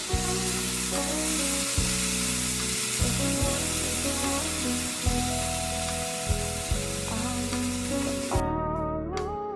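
Food sizzling as it fries in a pan, with background music over it; the sizzling cuts off suddenly near the end, leaving only the music.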